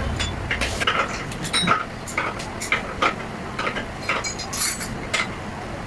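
Small metal parts and hand tools clinking and tapping irregularly, a few knocks a second, with a brief scrape about four and a half seconds in, as motorcycle engine parts are fitted by hand.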